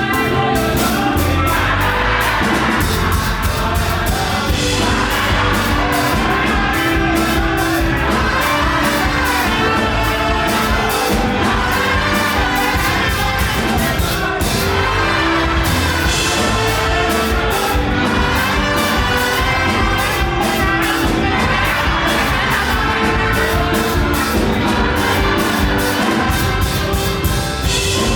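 Live up-tempo gospel praise music, a band with drums and singing voices, loud and driving throughout.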